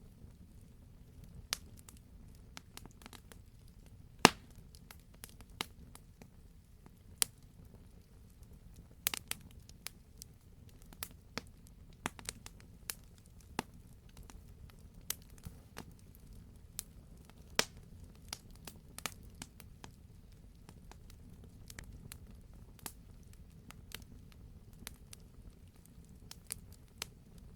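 Wood fire crackling: many sharp irregular pops and snaps over a low steady rumble of the burning, with the loudest pop about four seconds in.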